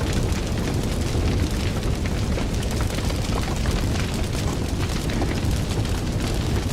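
Wood fire burning with a steady low rumble of flame and many small irregular crackles and pops.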